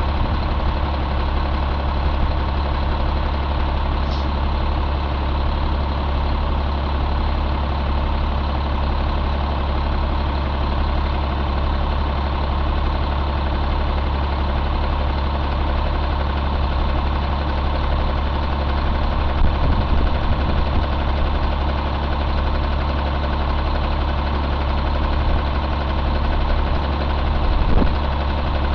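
Caterpillar C9 inline-six diesel engine idling steadily, with a couple of brief, slightly louder moments near the middle and near the end.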